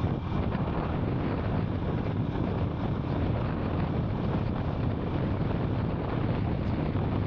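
Royal Enfield Scram 440's single-cylinder engine running steadily under way, with wind buffeting the microphone.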